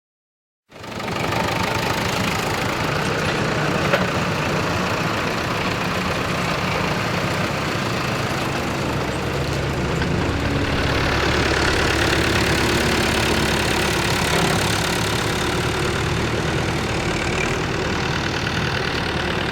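Vintage tractor engines running steadily, starting abruptly about a second in.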